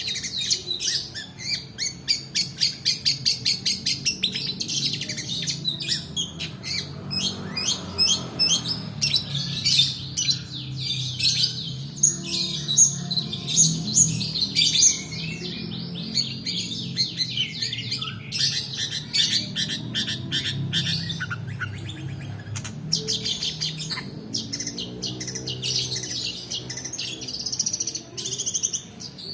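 Long-tailed shrike singing: fast rolling trills of rapidly repeated high notes, running into varied chattering phrases, over a low steady hum.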